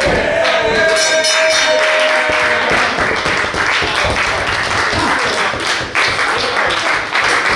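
Wrestling crowd applauding and cheering, with music playing over it.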